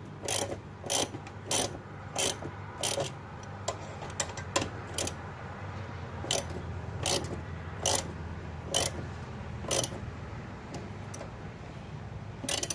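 Hand ratchet wrench clicking as it is worked in short strokes, turning the forcing bolt of a gear puller, about one sharp click every half-second to second and more sparse near the end. A steady low hum runs underneath.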